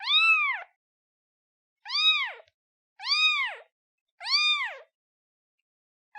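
Newborn kitten meowing for its mother: four short, high meows, each rising then falling in pitch, with gaps of one to two seconds between them.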